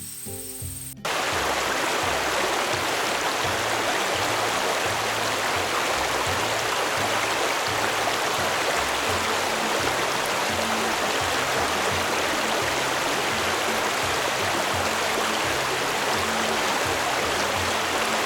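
Steady rushing of flowing stream water, which cuts in suddenly about a second in and runs over background music with a steady bass pattern.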